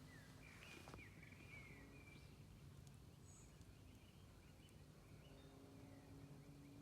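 Near silence with faint birds chirping, mostly in the first two seconds, over a faint steady low hum.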